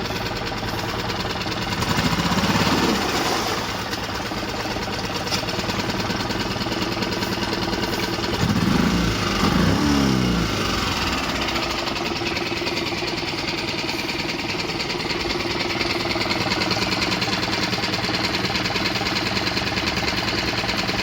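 Mariner 6 hp four-stroke outboard motor running steadily at idle, revved up and back down about two seconds in and again a couple of times around nine to ten seconds in.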